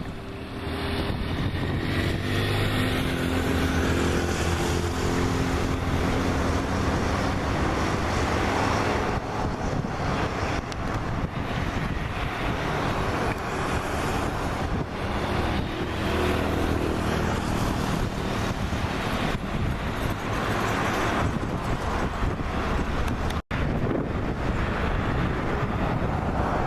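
Jet engines of a Boeing 737 MAX 8 (CFM LEAP-1B) running, a steady rushing noise with a low hum under it, broken by a brief dropout near the end.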